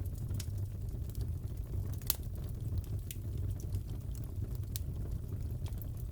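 Wood fire crackling in a fireplace: a steady low rumble of the flames with scattered sharp crackles and pops, one louder crack about two seconds in.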